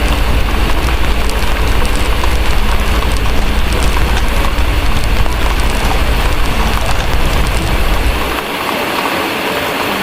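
Steady heavy rain mixed with the fine snapping crackle of a wood fire, over a low rumble that drops away about eight seconds in.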